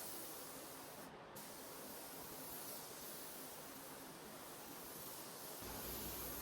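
Paint spray gun hissing steadily as compressed air atomizes paint, with a short dip in the hiss about a second in and a low rumble coming in near the end.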